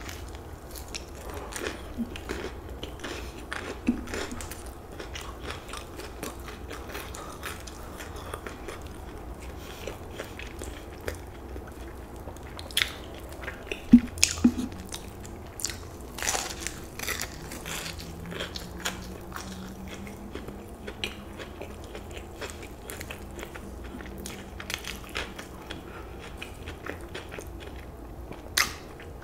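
A person chewing and biting crispy fried chicken close to a microphone: wet mouth clicks and smacks with scattered crunches, a few louder bites about halfway through and near the end.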